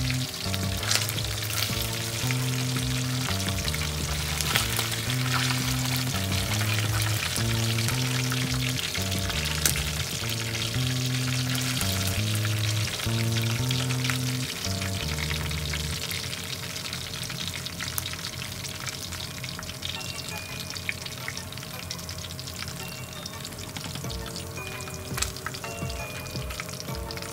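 Chicken pieces shallow-frying in hot oil in a pan: a steady crackling sizzle with small pops, as the pieces are turned with metal tongs. Background music with a bass line plays over the first half and stops about halfway through.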